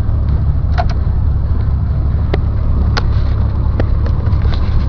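Steady low drone of a car driving, heard from inside the cabin, with a few short clicks scattered through it.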